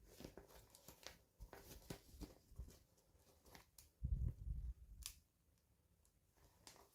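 Quiet, scattered small clicks, taps and rustles of toy packaging and miniature doll pieces being handled, with a dull bump about four seconds in and a sharp click just after.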